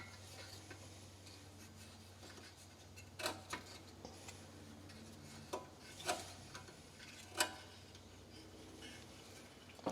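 A few scattered light metallic clicks and taps, about five of them through the middle of the stretch, from a brass fuel-line fitting and hand tools being handled while its threads are re-sealed, over a faint steady hum.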